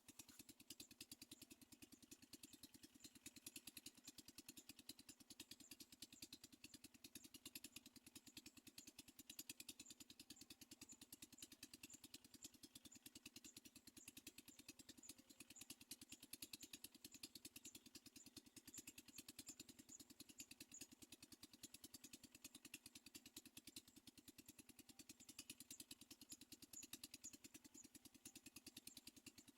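Near silence, with a faint, steady, very rapid ticking buzz.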